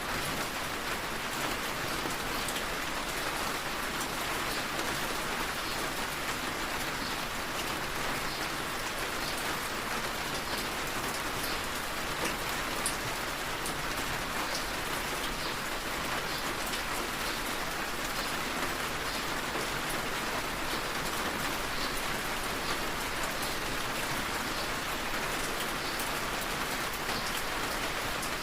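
Steady rainfall, an even hiss with scattered drops tapping, unchanging throughout.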